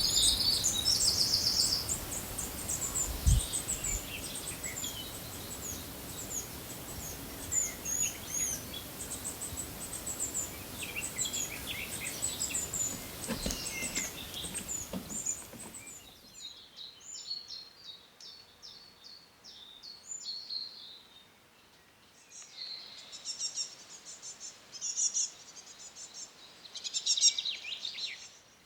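Birds chirping and singing in short, rapid trills over a steady background hiss. The hiss drops away about halfway through, leaving the chirps and trills clearer.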